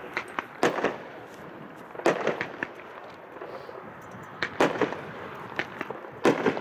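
Consumer fireworks cake (Thomas Jefferson, from a Founding Fathers assorted case) firing its shots: four loud reports in about six seconds, each followed by a few smaller pops.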